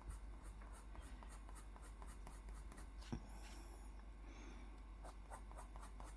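Faint scratching of a pencil shading on paper in quick back-and-forth strokes, about six a second, with a light tick about three seconds in.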